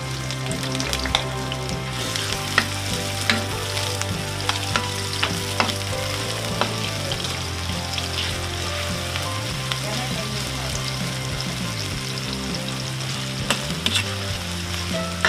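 Julienned ginger sizzling in hot cooking oil in a metal wok, getting stronger about two seconds in. A metal ladle stirs it, clicking and scraping against the pan now and then.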